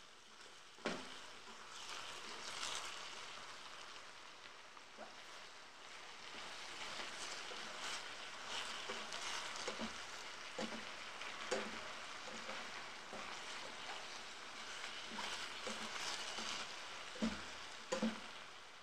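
Chopped cabbage frying in an enamel pot with a steady sizzle, stirred with a plastic spatula. The spatula knocks against the pot a few times: once about a second in, several times in the middle, and twice close together near the end.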